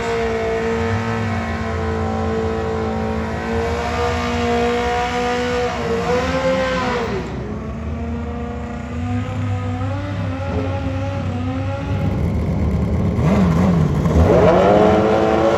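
Drag racing motorcycle engines running at high revs, the pitch held steady, then dropping and climbing again about halfway through and once more near the end.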